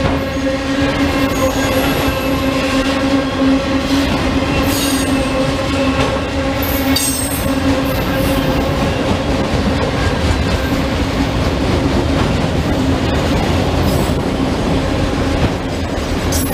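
Train rolling past: a steady heavy rumble with a constant low hum, and brief high-pitched squeals of wheels on the rails several times.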